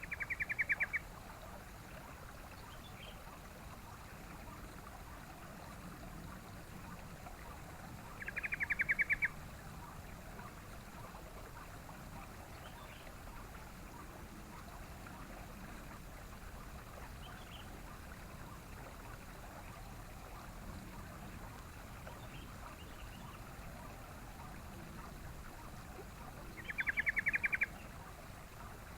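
Yellow-vented bulbul (trucukan) calling three times, each call a quick run of repeated chattering notes lasting about a second, over a steady background hiss.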